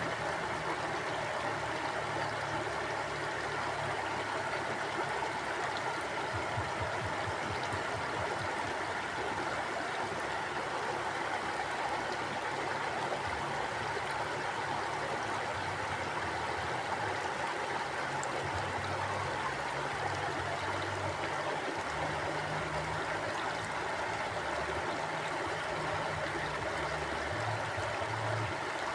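Mountain river flowing over rocks: a steady rush of water with a shifting low rumble underneath.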